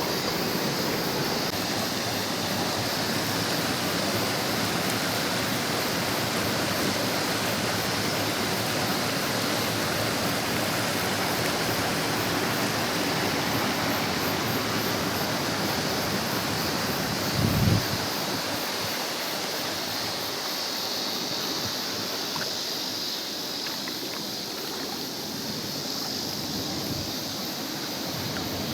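Mountain stream rushing steadily over rocks, with one brief low thump about two-thirds of the way through.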